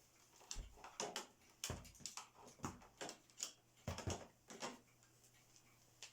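A string of irregular knocks and clicks, a few with dull low thuds, over about four seconds: handling noise and footsteps as an upright vacuum cleaner is picked up and carried.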